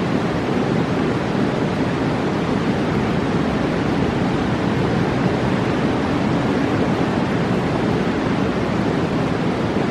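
Mountain river rushing: a steady, even roar of water with no breaks.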